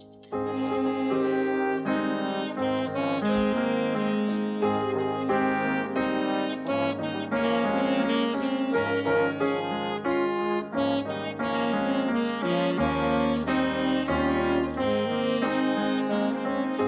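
Instrumental ensemble music: a melody in several voices over a bass line that moves in steps, starting suddenly just after the first moment.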